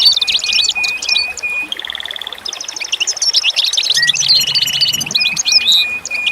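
A chorus of small songbirds chirping and trilling densely, with steady buzzy trills and short repeated whistles among the chirps. The same passage of song comes round again about five seconds later.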